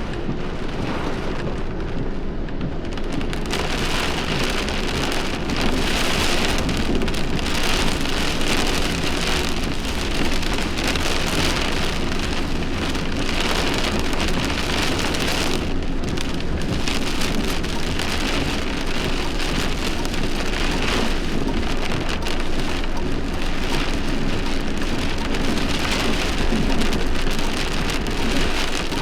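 Heavy thunderstorm rain pouring down steadily, growing heavier about three seconds in, over a low rumble of thunder.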